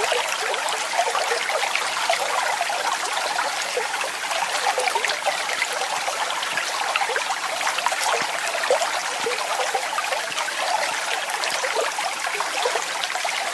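Water flowing and splashing steadily, a small cascade or stream with a busy bubbling, babbling texture and no deep rumble.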